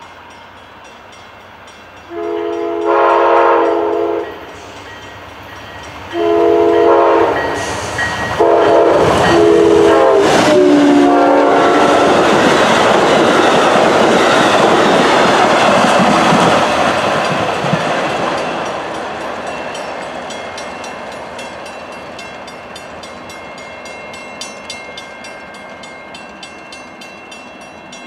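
Amtrak Downeaster passenger train sounds its horn in four blasts, two long and then two shorter ones close together, the grade-crossing warning; the last blast is a little lower in pitch. The train then passes close by with a loud rumble of wheels on the rails that slowly fades as it moves away.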